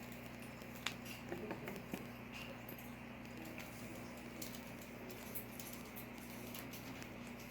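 Faint scattered clicks and patters from corgi puppies moving about and playing with their toys, over a steady low hum. The clicks cluster in the first couple of seconds, then come only now and then.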